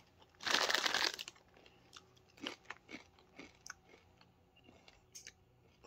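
A bite into a crunchy spicy corn chip about half a second in, then fainter crunching as it is chewed with the mouth closed, dying away in the second half.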